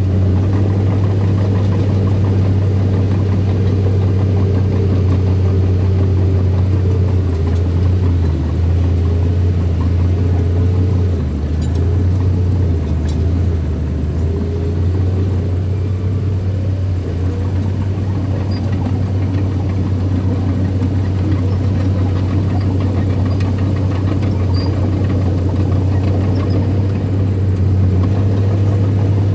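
Small bulldozer's diesel engine running steadily under work, its low hum sagging lower in pitch for a few seconds between about eight and fourteen seconds in before recovering.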